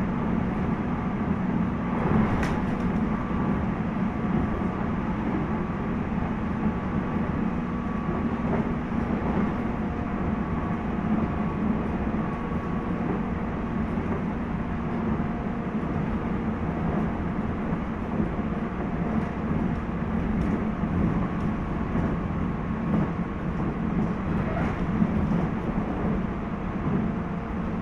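In-car running noise of a 719 series electric multiple unit, KuMoHa 719-1, heard from inside the carriage: a steady rumble from the wheels and track with faint steady whining tones over it, and a sharp knock about two seconds in and again near the end. The car is suspected of making an unusual noise.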